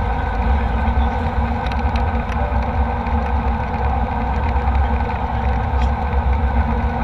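Steady jet-engine and airflow noise inside the cabin of an Embraer E190 airliner in flight: a deep, constant rumble with a few steady hums above it.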